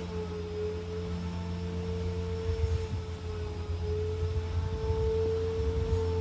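Vacuum cleaner motor running with a steady whine over a low hum.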